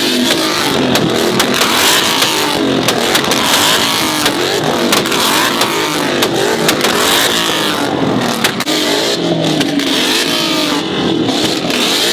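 Performance car engines revved hard over and over, the pitch sweeping up and down, with sharp exhaust pops and cracks scattered through.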